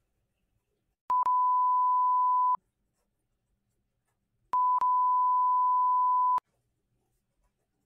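A steady pure 1 kHz censor bleep, sounding twice: about 1.5 s starting a second in, then about 2 s starting around four and a half seconds in. It covers the client's spoken home address.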